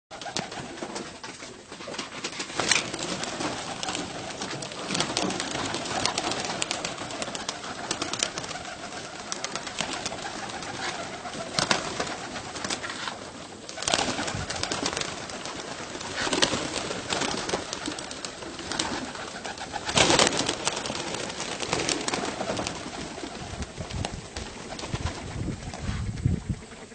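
Baghdadi pigeons cooing, several birds at once, with sharp clatters now and then; the loudest comes about twenty seconds in.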